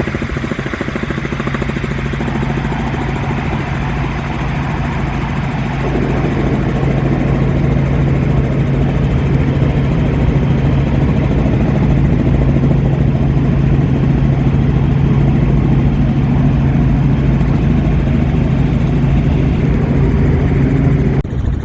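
Helicopter in flight heard from inside its doors-off cabin: a loud, steady drone of engine and rotor with a constant low hum. It grows louder about six seconds in and shifts abruptly near the end.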